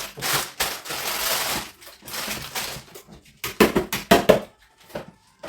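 Plastic food packets crinkling and rustling as they are handled, with a few sharp knocks and clatters about three and a half to four and a half seconds in.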